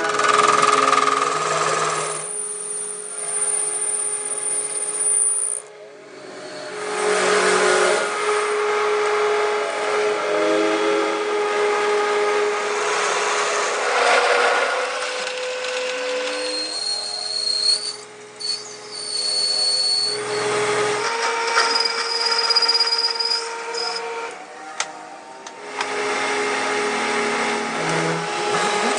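Metalworking machinery in a machine shop, heard as a string of short clips that cut one to the next. Each clip holds a steady machine hum with a held whine, some high-pitched, and a rougher grinding or cutting noise over it.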